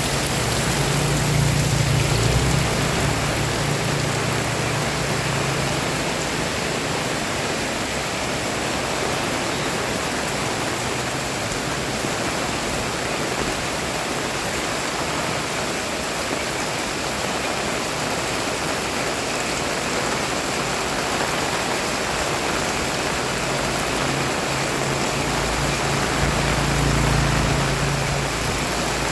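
Heavy rain pouring down, a steady dense hiss. A low steady hum swells for a few seconds near the start and again near the end.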